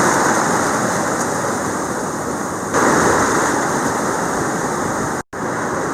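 Atlantic surf washing up the beach in a steady rush, with a fresh wave breaking about three seconds in. The sound cuts out for an instant near the end.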